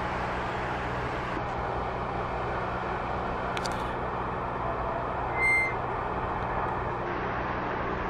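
Motor vehicle running steadily with a low hum, and a single short, high electronic beep about two-thirds of the way through.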